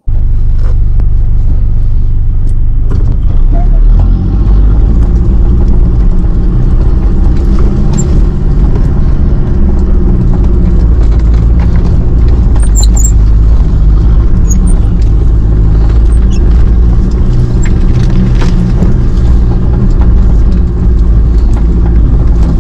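Off-road 4x4's engine running steadily at low speed, heard loud from on board as the vehicle crawls up a rocky track, with a few short knocks and rattles over the bumps.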